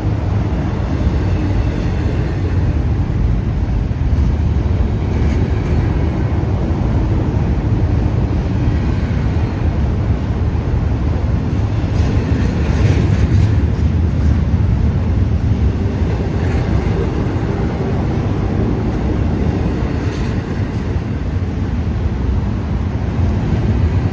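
Freight train rolling past, a steady low rumble of the cars on the rails with a few faint clicks.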